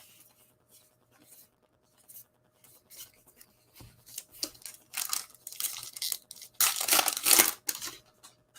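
A trading-card pack wrapper torn open and crinkled by hand: a few short rips, then a longer, louder tear about two-thirds of the way through.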